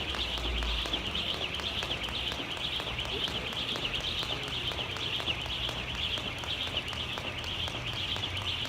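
Dense, continuous high-pitched chirping, as from many small animals.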